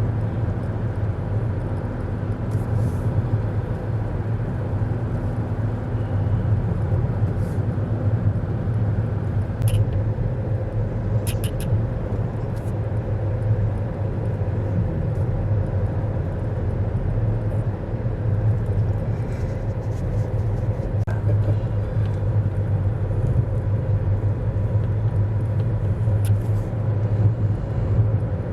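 Car driving along a highway, heard from inside the cabin: a steady low rumble of engine and road noise, with a few light clicks about ten and twelve seconds in.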